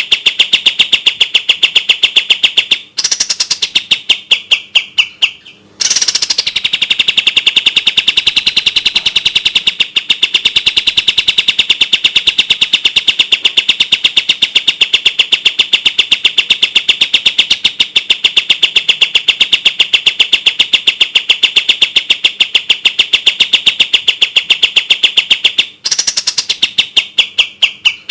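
Kapas tembak birdsong: a fast, tight rattling run of rapid, evenly spaced high notes. It breaks off just before three seconds in, fades and drops in pitch, stops briefly, then resumes in a long unbroken burst that breaks and fades again near the end.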